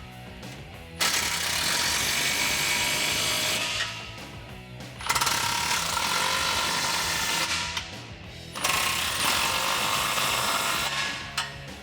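Power tool driving exhaust clamp nuts tight, running in three bursts of about two and a half seconds each.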